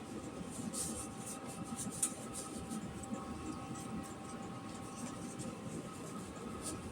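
Quiet room with a steady faint hum and scattered light clicks and rustles of handling, one sharper click about two seconds in.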